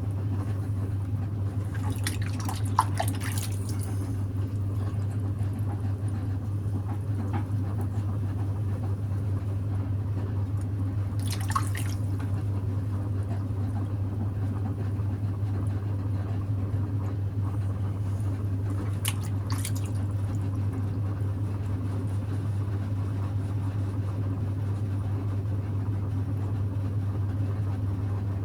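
Electric potter's wheel motor humming steadily while wet clay is thrown. A few brief wet drips and squelches of water and slip come about two, eleven and nineteen seconds in.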